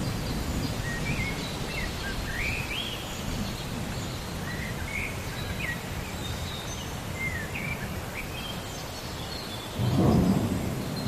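Thunderstorm ambience: a steady low rumble of thunder under the hiss of rain, with small birds chirping short rising and falling calls through most of it. A louder roll of thunder swells near the end.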